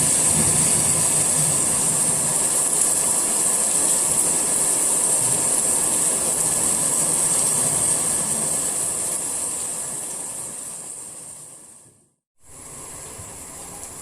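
Rain falling, a steady even hiss that fades away over a few seconds to a brief silence about twelve seconds in, then comes back quieter.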